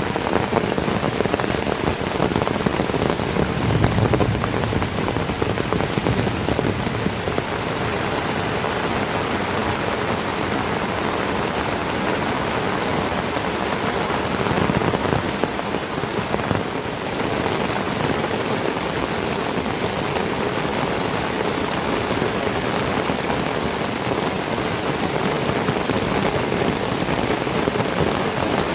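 Heavy tropical rain falling steadily, a dense even hiss of drops on leaves and ground, with brief low rumbles about four seconds in and again about fifteen seconds in.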